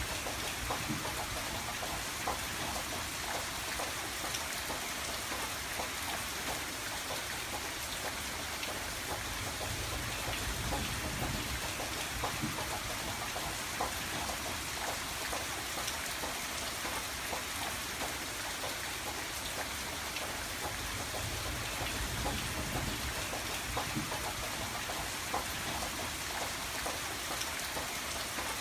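Steady rain on a window pane: a continuous hiss with many individual drops ticking against the glass, over a soft low rumble that swells and eases.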